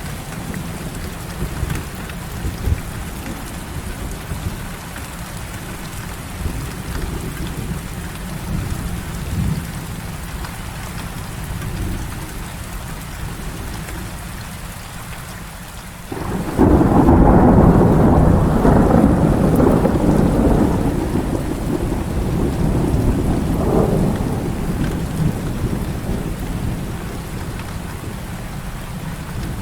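Heavy, steady rain. A little past halfway a rumble of thunder breaks in suddenly, is loudest for a few seconds, then rolls away slowly.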